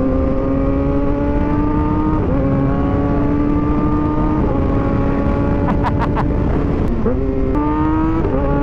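Kawasaki ZX-6R 636 inline-four sport bike engine accelerating under load and shifting up through the gears: the pitch climbs slowly, then drops at each of about four upshifts. Wind rush runs underneath.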